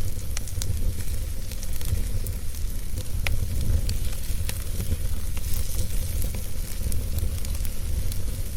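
Wood fire burning in a fireplace: a steady low rumble and hiss with scattered sharp crackles and pops, one louder pop about three seconds in.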